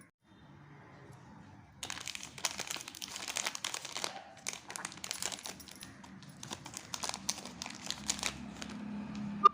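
Chocolate wrapper crinkling and tearing as it is opened by hand, starting about two seconds in, densest for a couple of seconds, then in scattered crackles. A low hum comes in near the end.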